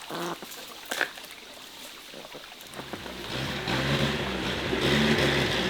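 An engine comes in about three seconds in and runs steadily, getting louder.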